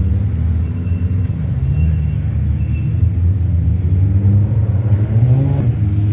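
Car engine rumbling at low revs, then revving up with a rising pitch near the end.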